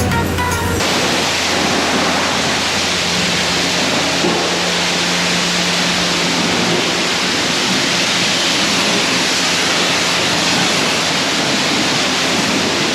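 High-pressure spray wand at a self-service car wash blasting water: a loud, steady hiss.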